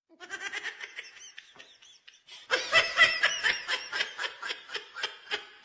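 Someone laughing hard in rapid, high-pitched bursts, softer at first and louder from about halfway through.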